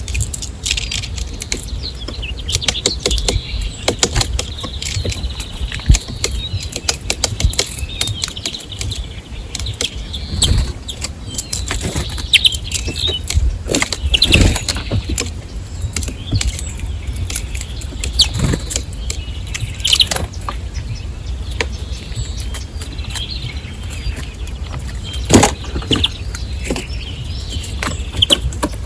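Small birds at a feeder chirping, with frequent sharp taps and brief wing flutters throughout, over a steady low rumble.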